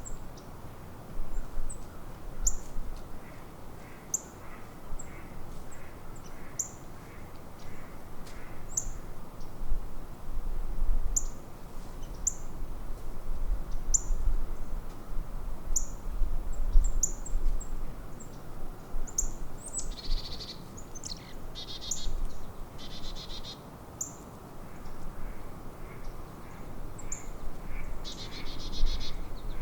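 Wild birds calling, a short high chirp repeated about once a second, with a few harsher, rasping calls in the second half.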